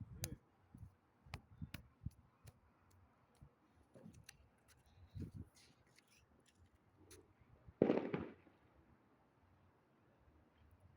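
Distant firecrackers and fireworks going off at random: faint, sharp cracks and pops scattered throughout, a few dull thuds, and one louder burst about eight seconds in.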